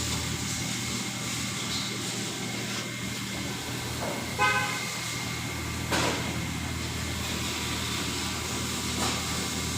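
Steady hum of vehicle engines with a short car horn toot about four and a half seconds in. A sharp knock follows about a second and a half later, and another near the end.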